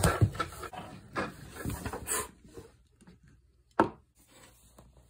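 Plastic Schleich toy horse figures knocked and rubbed along a wooden floor as they are moved: a run of light taps and scrapes over the first two seconds, then a single knock about four seconds in.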